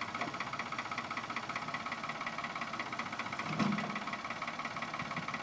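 An engine running steadily at idle with a rapid, even beat. A brief louder sound stands out a little past halfway.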